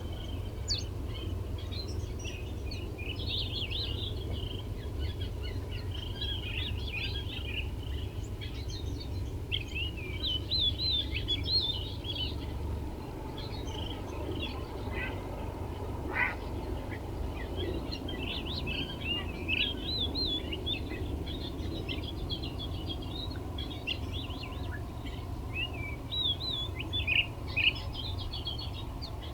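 Small birds chirping busily: many quick, short, twittering calls overlapping throughout, over a steady low rumble.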